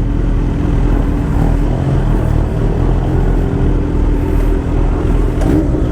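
Steady running noise of a road vehicle on the move: a constant engine hum with a held low tone over rumbling road and wind noise.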